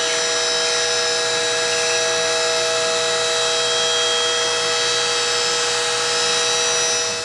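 A small electric motor runs at one steady speed with a buzzing whine, starting and stopping abruptly.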